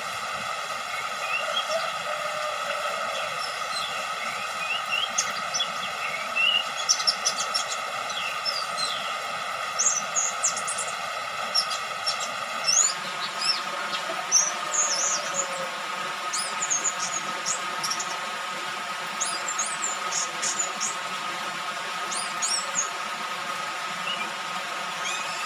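Young orange-headed thrush chirping and twittering in short, high, scattered phrases over a steady hiss; the background changes abruptly about halfway through.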